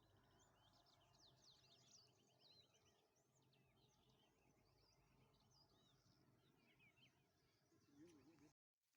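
Faint birdsong: many small birds chirping and trilling in quick, overlapping calls over a low background hum. It cuts off abruptly near the end.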